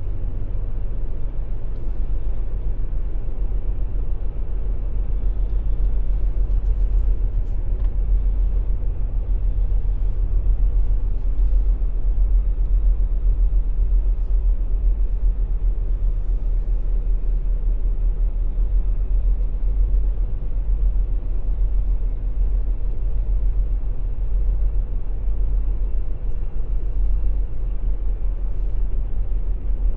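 Semi truck's diesel engine rumbling steadily, heard from inside the cab, with a few faint clicks here and there.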